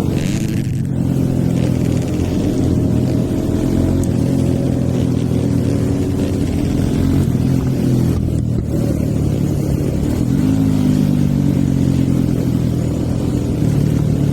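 Hero Eco 150's stage 2 tuned single-cylinder four-stroke engine running under way from the rider's position, its note steady, then rising as the revs climb about two-thirds of the way through.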